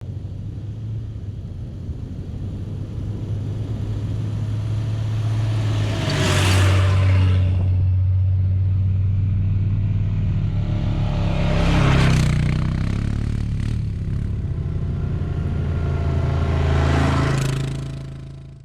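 A vehicle engine runs with a steady low hum. Three swelling and fading whooshes pass about five seconds apart, and the sound fades out near the end.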